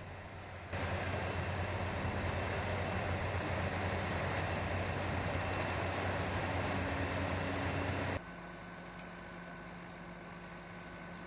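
Heavy farm machinery running: the engines of a potato harvester and the truck it loads on the go. The sound jumps suddenly to a loud, dense mechanical din just under a second in, then drops abruptly to a quieter steady engine hum near the end.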